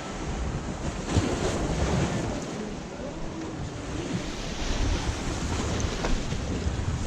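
Sea waves washing against the shore, with wind buffeting the microphone in gusts.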